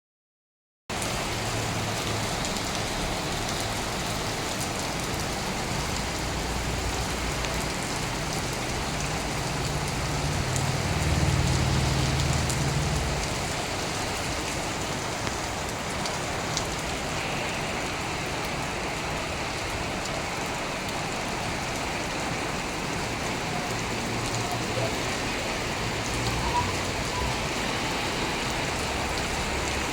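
Steady rain falling and pattering on surfaces, with a low rumble that swells for a few seconds about ten seconds in.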